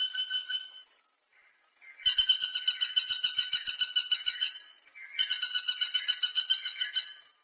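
Woodpecker calling in rapid rattling series of sharp, high notes, about eight a second, in three bursts with short pauses between.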